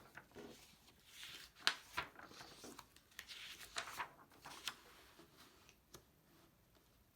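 Pages of a picture book being handled and turned: soft paper rustles with a few sharp taps, the loudest about a second and a half in.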